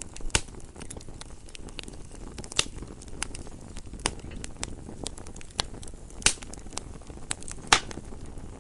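Wood fire crackling, a steady low rumble of flames with irregular sharp pops and snaps, a few of them louder.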